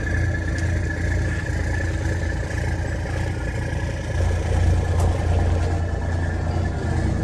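Heavy truck diesel engine idling steadily with a deep low rumble, swelling slightly about two-thirds of the way through.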